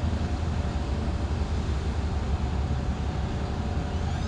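Steady low engine rumble of heavy machinery, with a few faint steady tones above it and no change in level.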